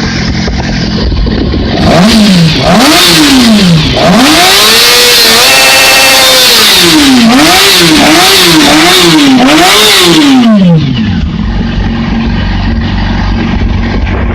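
2008 Yamaha R6 inline-four engine idling, then revved up and down about seven times in quick blips, with one rev held high in the middle, before dropping back to a steady idle near the end.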